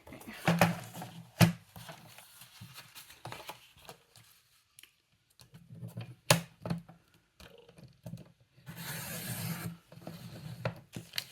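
Paper handling during junk journal crafting: scattered taps and clicks of paper and tools, with about a second of rasping rubbing or tearing of paper about nine seconds in.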